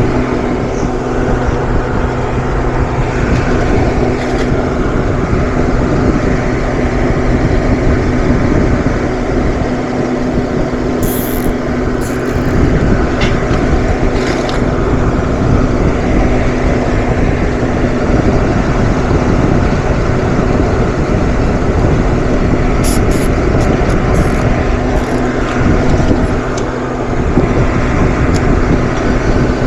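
A loud, steady machine running with a low electrical hum, with a few short high ticks about a third of the way in and again later.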